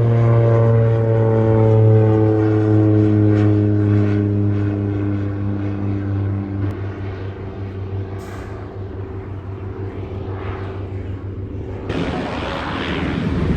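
Engine and propeller of an unmanned aircraft flying past, a steady drone that slides slowly down in pitch and fades as it passes. About twelve seconds in, a broad rushing noise takes over.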